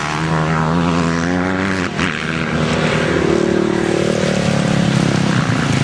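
Motocross motorcycle engines running at high revs on the track, a steady engine drone with a second, higher-pitched engine coming in about three seconds in.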